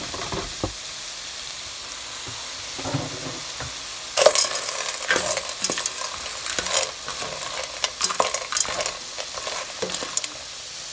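Garlic, carrots and mushrooms sizzling in butter in a pot, with a spatula stirring dry spiral pasta through them. The steady sizzle carries on throughout, and from about four seconds in the stirring adds irregular scrapes and clatters.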